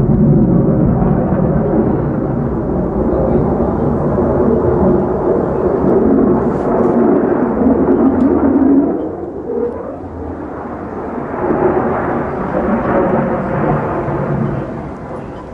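Single-engine F-35A Lightning II jet (Pratt & Whitney F135 afterburning turbofan) flying a display pass: a loud, deep rumbling jet roar that drops off sharply about nine seconds in, swells again a couple of seconds later and then fades.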